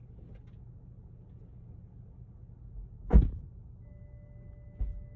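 A car door of the Genesis sedan shutting with a heavy thump about three seconds in, followed by a lighter thump near the end. A steady electronic warning tone starts just before four seconds and holds.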